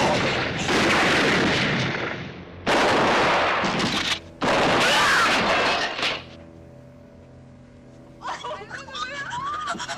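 Gunfire on a film soundtrack: about four loud shots in the first six seconds, each with a long echoing tail. A voice with a wavering pitch comes in near the end.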